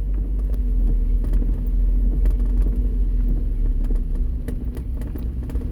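Car driving in steady rain with the windows open: a continuous low rumble of engine and tyres on the wet road, with scattered sharp ticks over it.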